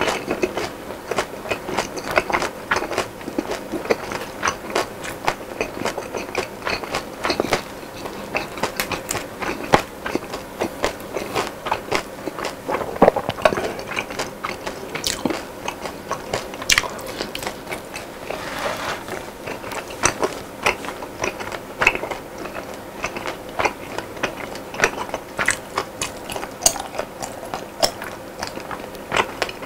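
Close-miked eating of crispy fried food: a steady, irregular stream of crunches and crackles as the batter is bitten and chewed, with wet mouth sounds between them.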